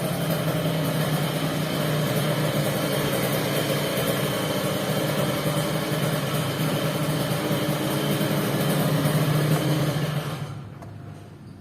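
An engine running steadily at idle, then cut off about ten and a half seconds in.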